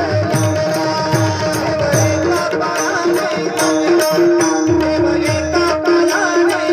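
Marathi bhajan music: tabla playing a steady rhythm with deep bass strokes, small cymbals striking on the beat, and a melody line over a held drone note.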